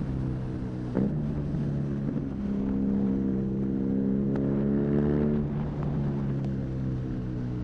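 BMW R nineT's boxer twin running through an Arrow high-mounted exhaust while riding. About a second in there is a short crack as the engine note steps; the note then climbs steadily for a few seconds before falling away a little past the middle.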